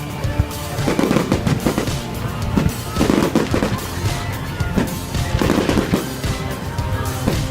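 Fireworks going off in rapid succession, a dense run of bangs and crackles several a second, with music underneath.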